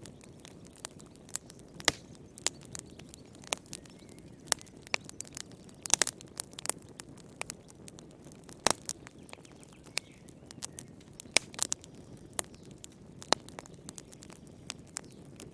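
Wood campfire crackling: irregular sharp pops and snaps, a few louder ones, over a steady soft hiss of the flames.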